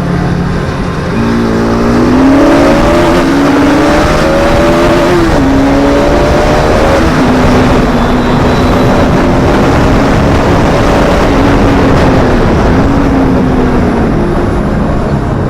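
Bajaj Pulsar RS200's single-cylinder engine accelerating under way. Its pitch climbs for a few seconds, drops at a gear change about five seconds in, then holds fairly steady at cruising speed, with a couple of brief dips near the end, over a rushing noise.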